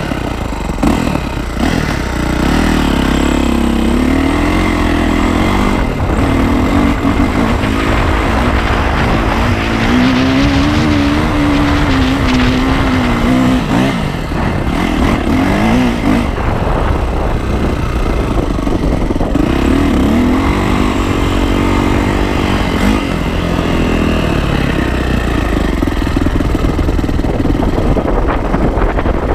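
Yamaha YZ450F's single-cylinder four-stroke engine being ridden hard, its pitch rising and falling again and again as the throttle is opened and closed, with wind rushing over the camera microphone.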